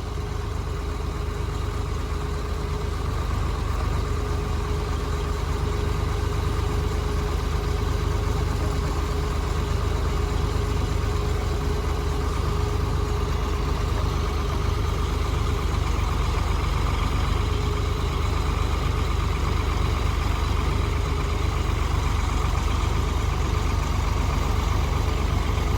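Old tractor backhoe's engine running steadily, a little louder after the first few seconds.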